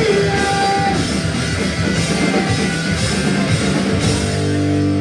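Punk rock band playing live, with loud distorted electric guitars and a drum kit. About four seconds in, the busy playing gives way to one held, ringing chord.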